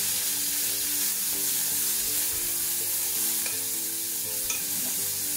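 Bean sprouts sizzling steadily in a hot pan as they are stirred with chopsticks, being pan-fried to drive off their raw, grassy smell.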